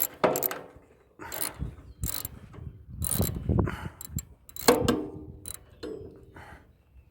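Wrench and steel parts clicking, scraping and briefly squeaking in irregular bursts as a bolt is worked loose from a riding mower's deck drive belt bracket.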